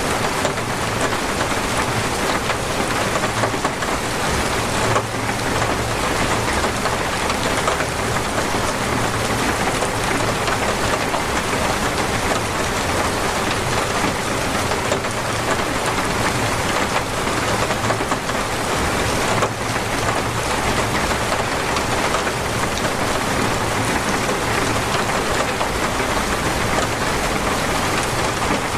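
Heavy rain falling steadily, a dense even hiss of rain on a surface.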